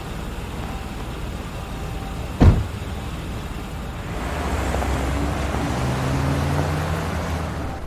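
A single heavy thud about two and a half seconds in, then a vehicle engine building up with its pitch slowly rising, as a car pulling away.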